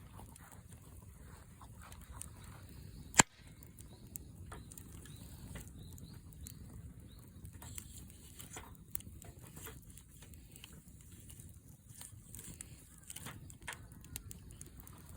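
Wood fire crackling in a campfire stand: irregular sharp pops and ticks, with one loud snap about three seconds in.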